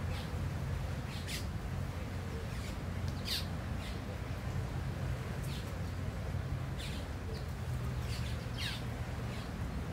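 Birds calling repeatedly: short, sharp calls that fall in pitch, one every second or two, over a steady low background noise.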